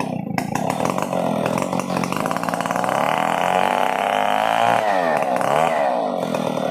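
Stihl 070 two-stroke chainsaw running, revving up to a high, steady pitch a couple of seconds in. Near the end the engine pitch drops sharply and climbs back once before easing off.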